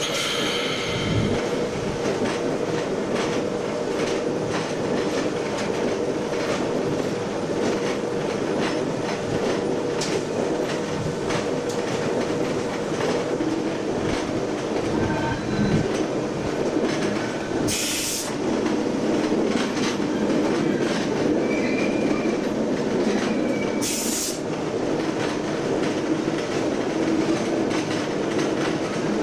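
Work train rolling along jointed track, heard from inside the cab: a steady running drone and hum with irregular clicks of the wheels over rail joints. Two brief high-pitched bursts of noise come about 18 and 24 seconds in.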